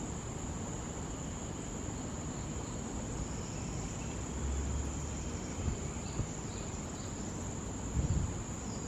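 Steady, high-pitched drone of insects in forest, unbroken throughout, with a few soft low thumps in the middle and near the end.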